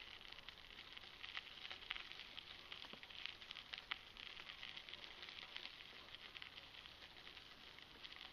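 Small camera rattling in its bicycle handlebar mount from the ride's vibration: faint, irregular small clicks over a steady hiss.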